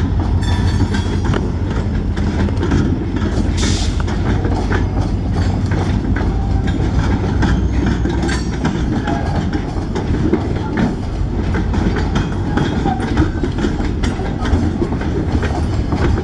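Freight cars of an Escanaba & Lake Superior Railroad train, loaded with pulpwood logs, rolling past: a steady low rumble with the wheels clicking and clanking over the rail joints. A brief high-pitched noise comes about three and a half seconds in.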